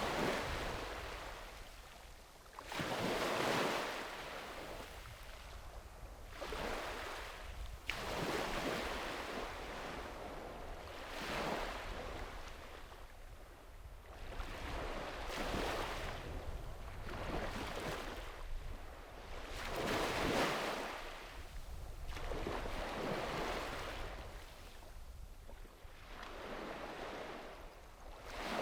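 Small waves breaking on a sandy beach, one swash after another every few seconds, each rising and falling away, over a steady low rumble of wind.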